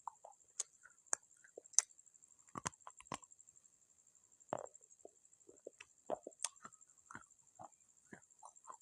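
Close-miked crunching of baked clay pot pieces being bitten and chewed: irregular small clicks and short crisp cracks, with a few louder snaps.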